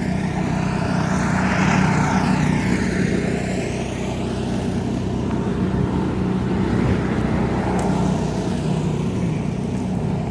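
Motor vehicle engine running steadily on a snowy street, with vehicles passing by, one about a second or two in and another near the end.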